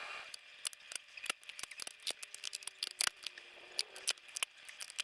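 Tape being pulled off its roll and wound around a paper firework tube: a run of irregular, sharp crackling clicks.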